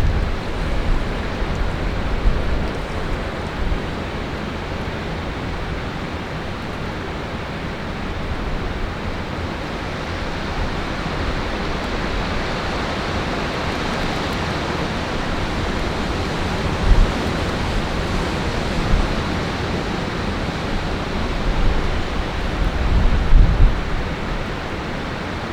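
Strong wind rushing steadily, with gusts buffeting the microphone in low rumbles now and then, most heavily near the end.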